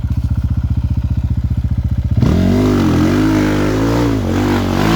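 Enduro motorcycle engine: running at low revs with an even pulse, then about two seconds in it is revved hard, its pitch rising and falling.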